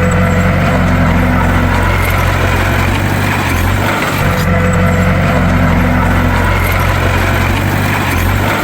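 Heavy diesel engine of a bulldozer running steadily, with a brief dip in its sound about halfway through.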